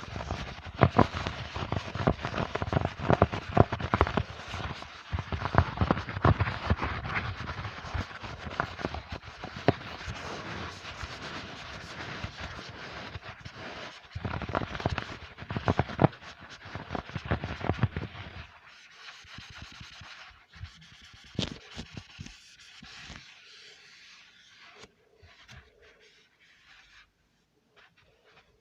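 ASMR trigger sounds: close, dense crackling and scratching clicks, thinning out to sparse, quieter clicks for the last third.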